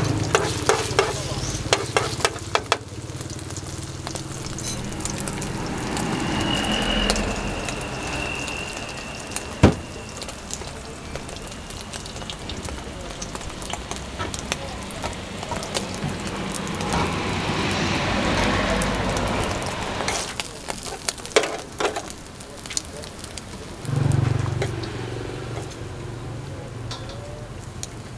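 Egg and meats frying on a flat steel griddle, a steady sizzle that swells and fades, with clicks and knocks from the metal spatula and tongs on the steel.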